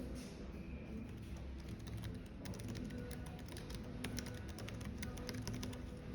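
Computer keyboard typing: a quick, uneven run of key clicks that starts a little over two seconds in, over a low steady cafe background with soft music.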